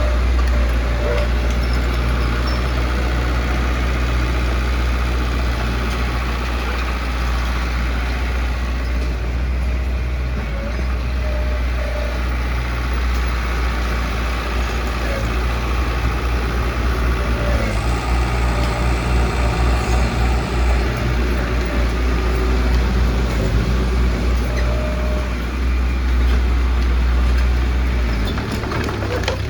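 Heavy diesel construction machinery running steadily, a loud deep engine rumble with the dense noise of the work over it.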